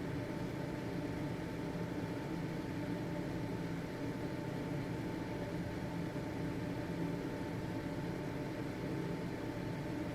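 Household ventilation fan running steadily: an even motor hum and air rush with a faint steady high tone over it.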